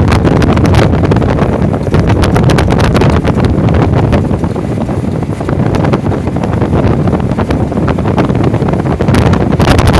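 A boat under way, its engine running beneath heavy wind buffeting on the microphone. The sound eases slightly around the middle and grows louder again near the end.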